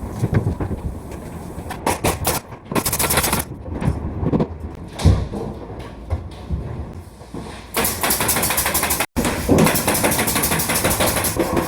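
Building-site work noise: irregular knocks and clattering impacts, busier and denser after a brief dropout about nine seconds in.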